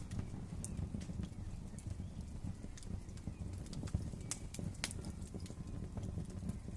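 Wood fire crackling: scattered sharp pops and snaps at irregular moments, the sharpest about four and five seconds in, over a steady low rumble of the flames.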